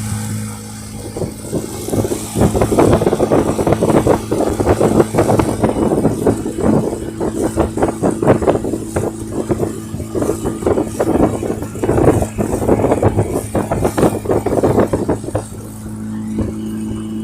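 Tour boat's motor running steadily, with loud, irregular crackling and rushing noise over it from about a second in until near the end, after which the steady motor hum is heard clearly again.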